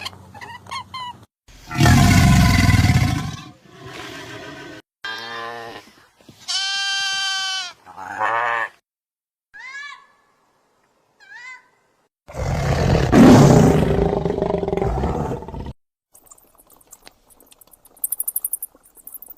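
A string of separate animal calls, the loudest two being long, rough big-cat roars. Shorter, higher-pitched calls and chirps come between them.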